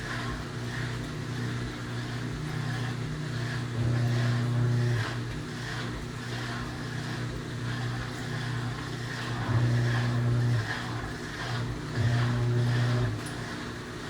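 Panasonic 12 kg top-load washing machine agitating a load: its motor hums in stretches of about a second, several times, over repeated water-and-clothes swishing in the tub.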